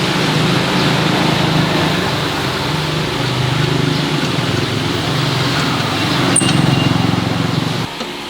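A motor runs steadily with a low, even hum and stops abruptly near the end. A sharp click sounds about six seconds in.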